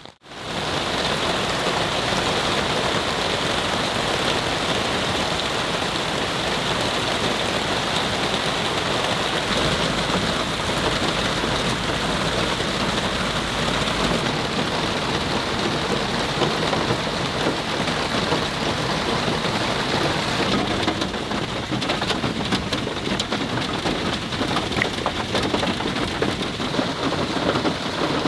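Heavy rain pouring down steadily in a dense, even downpour.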